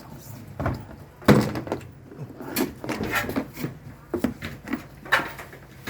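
A run of knocks, bangs and clatter as hard objects are shifted and handled, with the loudest bang about a second in.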